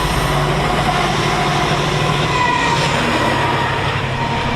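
Diesel-hauled freight train passing close by: a steady, loud rumble of locomotive engine and rolling wagons.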